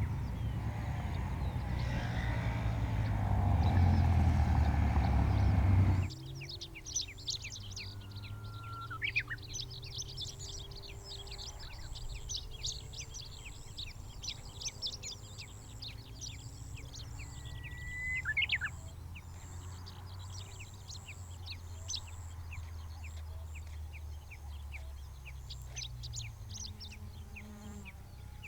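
A loud rumbling noise for about six seconds that cuts off suddenly. Then several wild birds chirping and singing in a quick jumble of high notes, with a few short slurred whistles, over a faint steady low hum.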